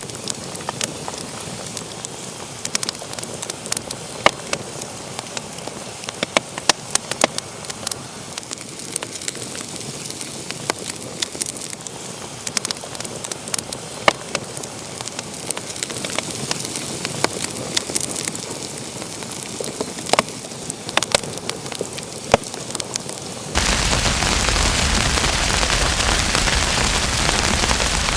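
Wood fire burning in a fireplace, crackling with frequent sharp pops over a soft hiss. About 23 seconds in, the sound switches abruptly to a louder, even hiss.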